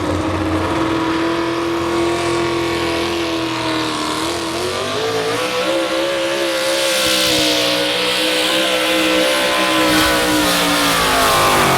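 Modified 4x4 pulling truck's engine running hard as it pulls the sled down the track. Its pitch climbs about four to five seconds in, holds there, and sags slightly near the end.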